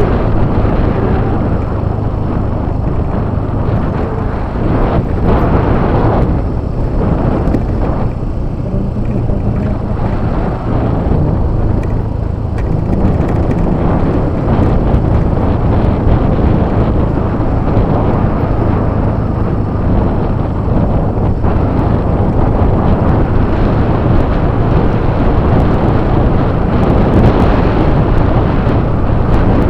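Wind rumbling heavily on the microphone of a moving Yamaha Fazzio scooter, with the scooter's engine and road noise running steadily underneath.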